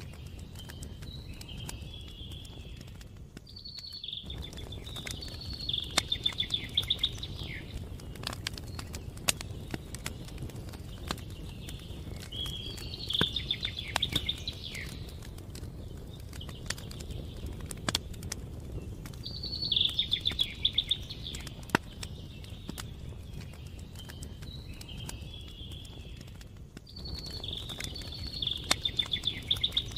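Campfire crackling with frequent sharp pops over a low steady rush. Over it, a songbird repeats the same short trilled phrase about four times, roughly every seven seconds.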